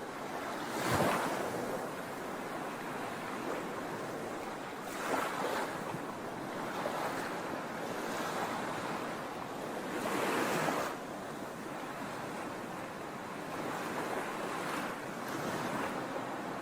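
Sea waves washing onto a shore: a steady rush of surf, with waves breaking more loudly about a second in, around five seconds and around ten seconds.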